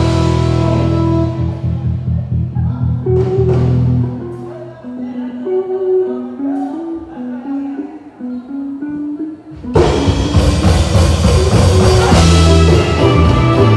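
A live band plays with drums, bass and guitar. About four seconds in it drops to a lone melody line of stepped notes, and near the end the full band comes back in suddenly.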